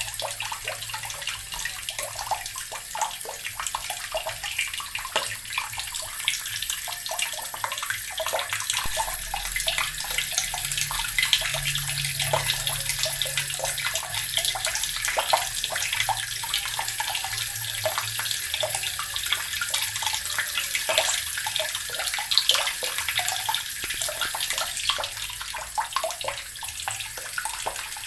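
Water running steadily from a tap and splashing into a basin below, a continuous stream with fine spattering.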